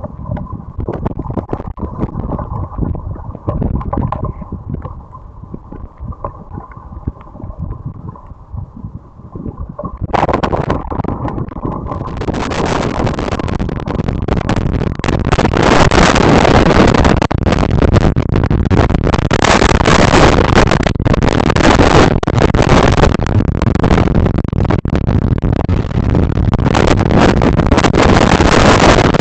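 Strong wind buffeting the microphone in a storm: gusty rumbling at first, then, about ten seconds in, a sudden louder steady rushing that builds for several seconds and stays loud.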